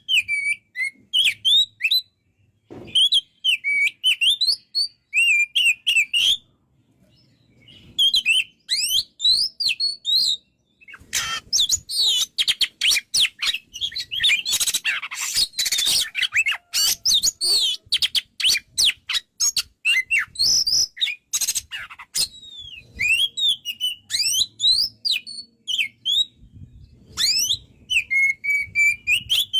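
Oriental magpie-robin (kacer) singing in full voice: phrases of whistled, sliding notes and chirps broken by short pauses, with a long stretch of fast, dense chattering in the middle.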